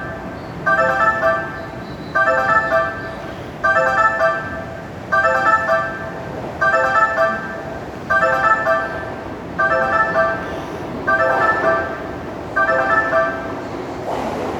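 Station platform warning chime, a short electronic phrase of several notes, repeating about every one and a half seconds. It warns that a non-stopping train is about to pass through the station.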